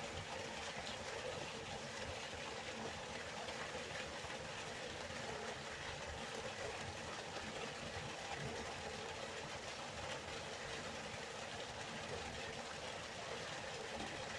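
River water flowing, a steady, even rushing without breaks.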